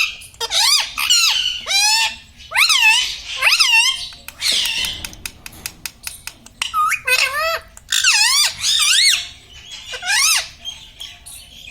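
Indian ringneck parrot calling in repeated short, high, wavering phrases, in four or five bursts, with a few faint clicks in a pause near the middle.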